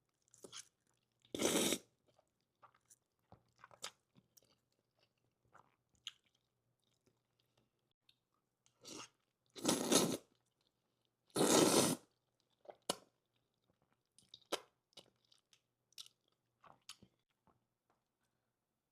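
Close-up eating of spicy, cheesy Buldak instant noodles: wet chewing and small mouth clicks, with three louder half-second eating sounds, one about a second and a half in and two close together near the middle.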